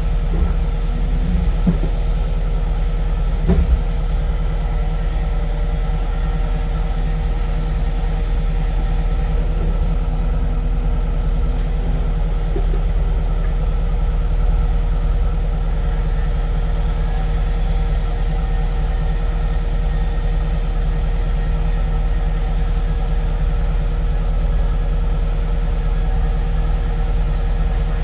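Heavy diesel equipment engine running steadily with a low rumble, with a couple of short knocks about three and a half seconds in.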